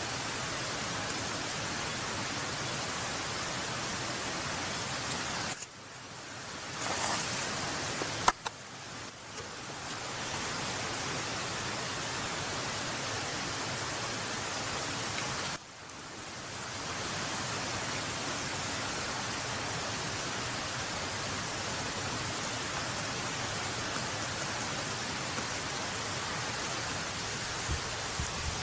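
Steady hissing noise, broken by two brief dips, with a single sharp click about eight seconds in.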